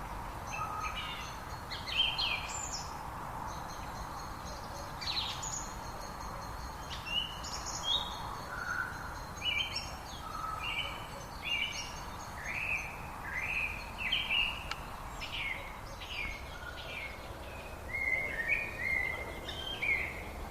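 Songbirds singing: a steady stream of short chirps and slurred whistled notes, with a thin high held tone through the first half, over a constant background hiss.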